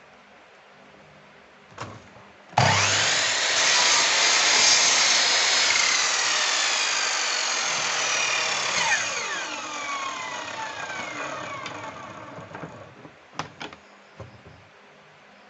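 A wood router's high-speed motor is switched on with a sudden start and runs at full speed for several seconds. It is then switched off and winds down, its whine falling in pitch as it coasts to a stop. A few sharp clicks come near the end.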